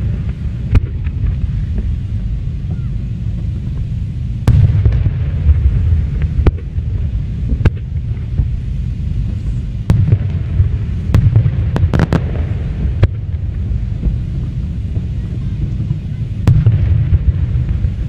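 Aerial fireworks going off: sharp bangs every second or two, with a quick cluster of cracks about twelve seconds in, over a continuous deep rumble.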